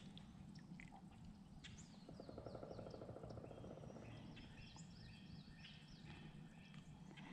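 Near silence with faint wild bird chirps and calls over a low steady rumble; a rapid pulsing trill comes in about two seconds in and lasts about two seconds.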